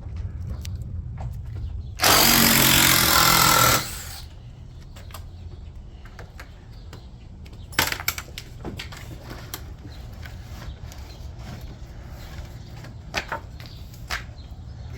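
Handheld power tool running in one loud burst of about two seconds, about two seconds in, followed by a few scattered knocks.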